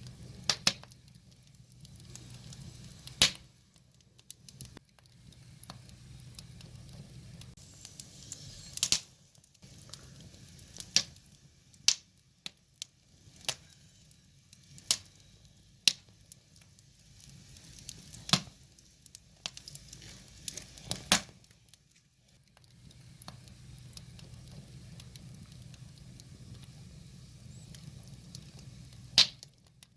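Wood fire crackling: sharp pops and snaps at irregular intervals over a soft hiss, with a low steady rumble of the flames that fades out in the middle stretch and returns near the end.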